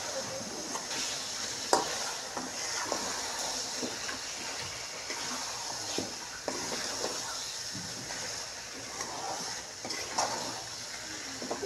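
Chicken leg pieces sizzling in oil and spices in a metal wok while a metal spatula stirs and scrapes them, with irregular clinks of the spatula against the pan over a steady frying hiss. This is the bhuna stage: the chicken is being fried in the masala.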